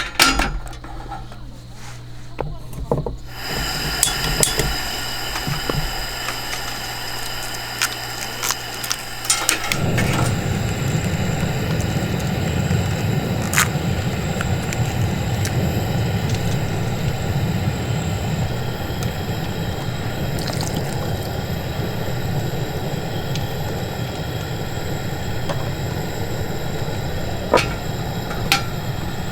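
Steady rushing noise like running water. It starts a few seconds in and becomes fuller and deeper about ten seconds in, with a few light clicks scattered through it.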